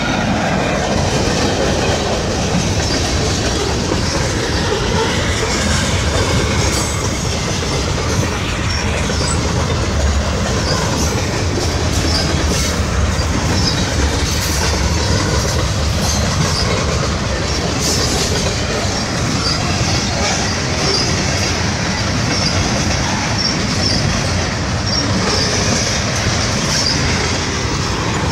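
Freight train cars rolling past, centerbeam flatcars, a covered hopper and tank cars, their wheels clattering steadily over the rails, with brief high squeaks here and there.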